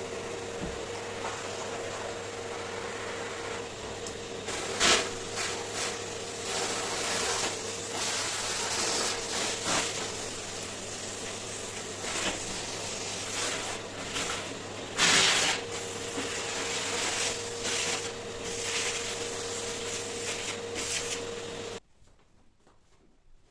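An appliance motor running with a steady hum and hiss, with rubbing and knocking sounds over it, loudest twice. The hum cuts off abruptly near the end.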